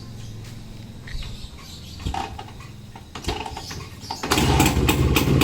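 Rajdoot 175 motorcycle's single-cylinder two-stroke engine being kick-started: a few faint knocks, then about four seconds in it fires on one kick and settles into a steady, rapid popping run.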